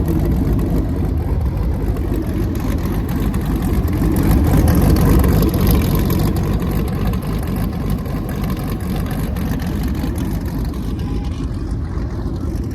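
Car engines running with a steady, loud low rumble, swelling slightly midway.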